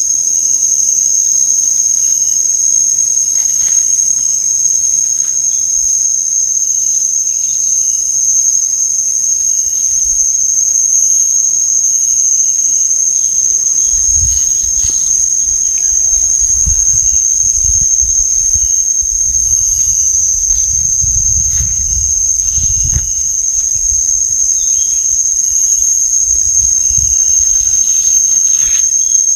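Steady, shrill chorus of tropical forest insects holding one unbroken high tone, with scattered light knocks and a low rumble through the middle stretch.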